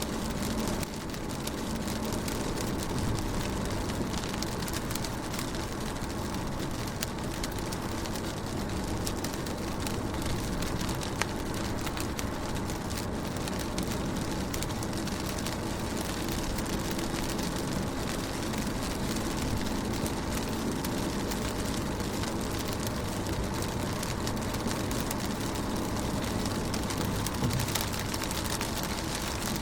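Rain falling on a car window: a steady wash of rain with many single drops ticking against the glass. The level rises over the first second, then holds even.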